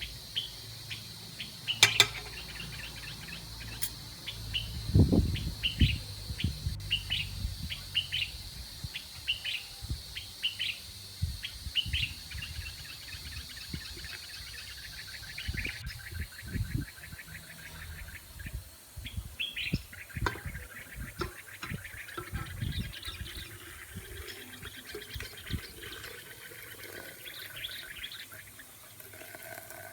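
Birds chirping and singing in quick repeated calls and trills, over scattered low knocks and thuds.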